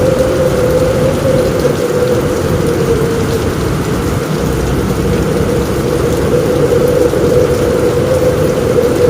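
Heavy rain falling steadily on a roof, a dense, even rush of noise.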